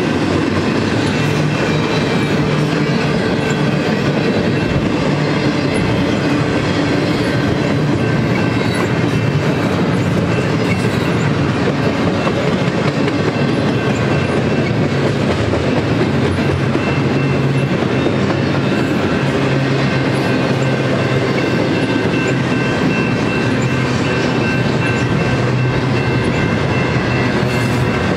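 Double-stack intermodal freight train's loaded well cars rolling past, a steady loud rumble and clatter of steel wheels on the rails.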